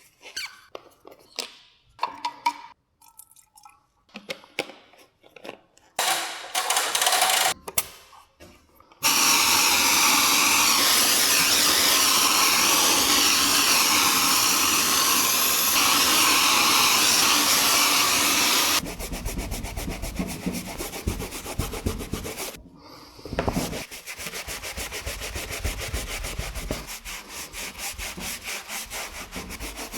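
Scattered light taps and knocks, then a loud steady hiss lasting about ten seconds, which gives way to rapid back-and-forth rubbing, like brush scrubbing on a car's surface.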